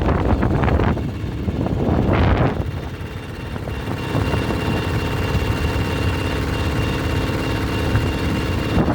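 Bulldozer's diesel engine running, with uneven clattering surges in the first couple of seconds, then a steady drone with a faint constant high whine.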